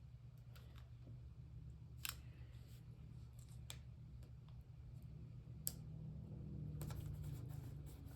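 A few faint, scattered clicks and small rustles of paper and washi tape being handled, over a steady low hum.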